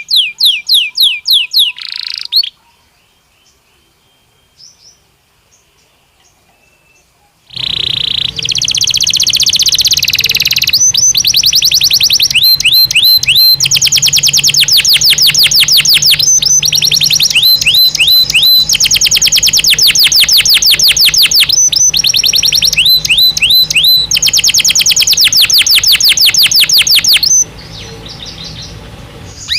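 Belgian canary singing in fast trills of rapidly repeated high notes. The song breaks off about two seconds in, leaving a few seconds with only faint chirps, then resumes loud and continuous and softens briefly near the end.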